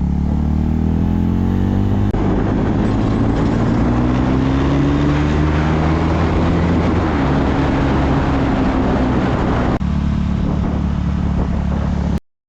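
KTM Duke 390's single-cylinder engine pulling under way, its pitch rising steadily as the bike accelerates, then holding, over a rush of wind noise. The sound cuts off suddenly near the end.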